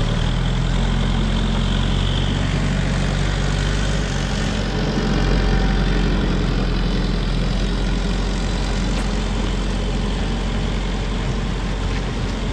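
A large engine running steadily at an even speed, a low hum with no revving.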